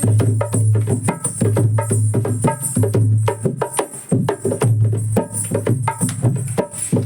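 Instrumental break in a Bhojpuri folk song: hand drums and other percussion play a quick, busy beat over deep bass notes and a pitched melody line, with no singing.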